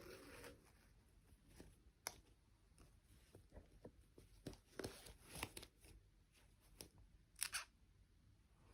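Faint handling sounds of an unboxing: scattered small clicks and short rustles, as of packaging and plastic doll parts being moved, with the loudest rustle near the end.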